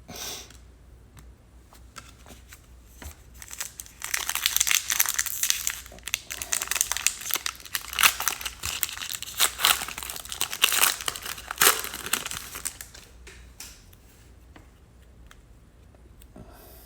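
Crinkling and tearing of a foil trading-card pack wrapper being opened and handled, a dense run of crackles lasting several seconds from about four seconds in.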